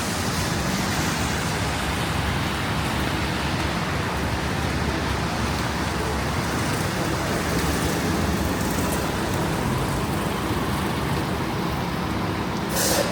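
Street ambience in a snowstorm: gusty wind rumbling on the microphone over steady city traffic noise, with one short hiss near the end.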